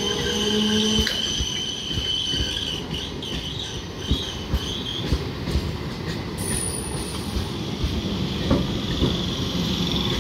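Electric local train passing close by: a steady rumble of wheels on rail under a high, wavering wheel squeal, with sharp knocks here and there as the wheels cross rail joints.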